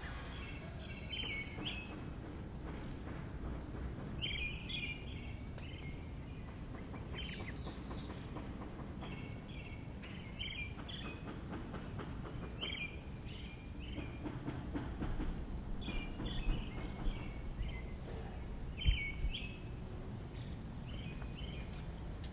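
A bird calling, repeating a short chirping phrase every two seconds or so, over a steady low background rumble.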